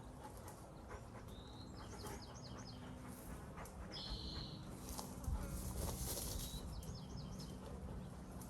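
A songbird singing the same short phrase twice: a quick run of high notes followed by a buzzy note. A steady low hum runs beneath it.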